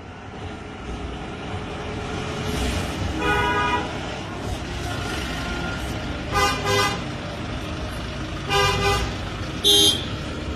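Vehicle horns honking in short blasts over a steady engine rumble: one about three seconds in, a double honk about halfway, another near the end, then a shorter, higher blast.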